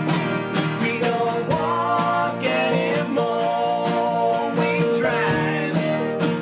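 A live band playing a song: strummed guitars and sung vocals over a steady beat.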